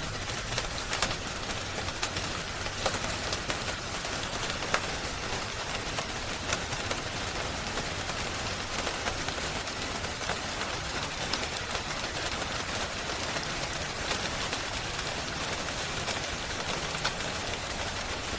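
Steady rain hiss with a wood fire crackling, a scattering of sharp pops and snaps over the even hiss.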